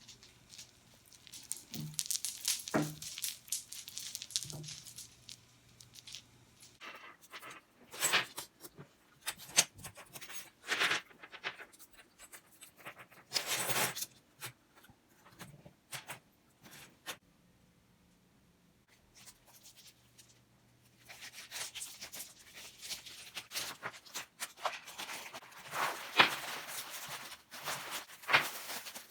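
Strands of a beaded curtain clicking and rattling against one another in irregular bursts as they are stirred, with a pause of a few seconds around the middle.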